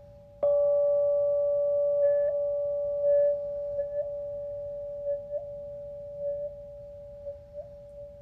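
Singing bowl struck once about half a second in, then ringing on in one sustained tone that wavers slowly as it fades. A fainter steady tone from an earlier note rings underneath.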